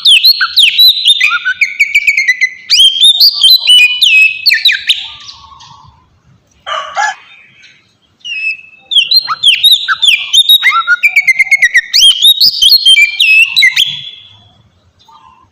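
Oriental magpie-robin (kacer) singing: two long phrases of rapid, varied whistles and trills, with a short harsh call between them about seven seconds in. This is the challenge song used as a lure (pancingan) to set other magpie-robins singing back.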